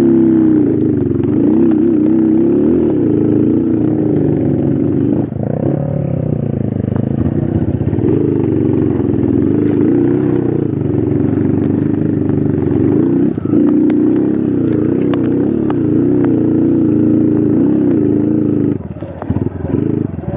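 Trail motorcycle engine being ridden, its pitch rising and falling steadily as the throttle is opened and closed. Near the end it drops to a slow, pulsing idle.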